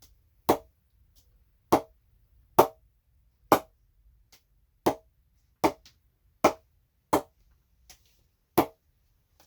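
Zee Sports Green-Two English willow cricket bat being struck on its face again and again in a ping test. About nine sharp wooden knocks, roughly one a second, each with a short ring.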